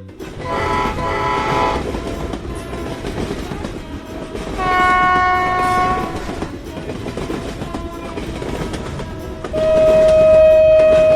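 A train running with a steady rumble and clatter, sounding its horn three times: a short blast about half a second in, a longer one around the middle, and the loudest, held blast near the end.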